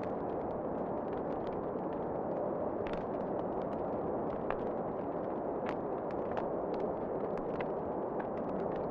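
Wood fire crackling in a fireplace, with irregular sharp pops and snaps over a steady low rush of wind.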